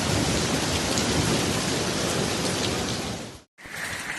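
Heavy hail pelting down, a dense, steady clatter with a deep rumble under it. It cuts off abruptly about three and a half seconds in, and after a brief gap a different stretch of storm noise starts, with a steady high hum in it.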